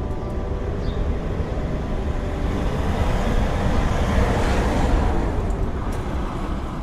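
Blizzard wind blowing hard over a deep, steady rumble, with a gust that swells about halfway through and then eases off.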